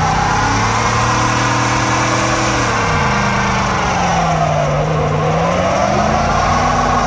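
Pickup truck engine held at high revs in a burnout, the pitch sagging about two-thirds of the way through and then climbing back.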